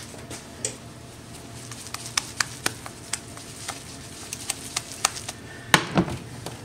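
A utensil clicking and clinking against a frying pan while working an egg omelet, the taps coming in a quick irregular run, then two louder knocks near the end.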